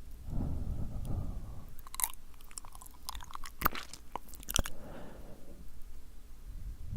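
Close-miked ASMR mouth sounds: sticky, wet clicks and smacks of lips and tongue. Soft breathy puffs come at the start and again about five seconds in.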